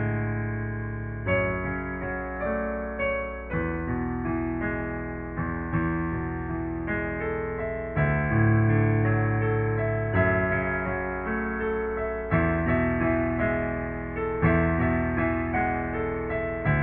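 Solo piano playing slow sustained chords, a new chord with a low bass note struck every two seconds or so and left to ring and fade.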